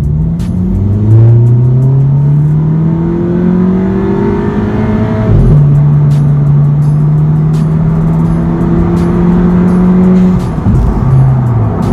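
MK7 Golf 1.8 TSI turbocharged four-cylinder with a 3-inch straight-pipe Magnaflow cat-back exhaust (no muffler or resonator), accelerating hard: the exhaust note rises for about five seconds, drops sharply at a gear change, then pulls steadily higher before falling off near the end as the driver lifts.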